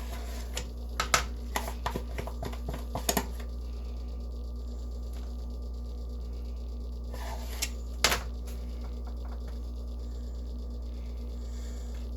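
Light clicks and taps of a small spoon against a dish while spooning and spreading topping. There is a quick cluster in the first three seconds and a couple more a little before eight seconds in, over a steady low hum.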